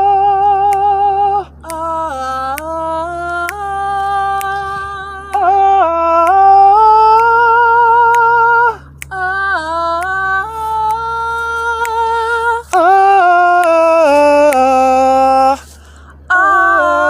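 Wordless sung vocal warm-up: unaccompanied voice running stepped scale patterns up and down in phrases, louder phrases alternating with quieter answering ones, as a leader sings and a second singer repeats after. A steady low electrical hum sits underneath.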